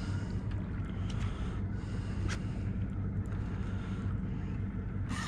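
Boat engine idling with a steady low hum, with a few short clicks over it.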